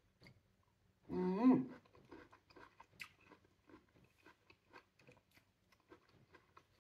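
A person chewing juicy pomelo flesh close to the microphone: a rapid run of soft, wet mouth clicks. A short hummed sound, rising in pitch, comes about a second in.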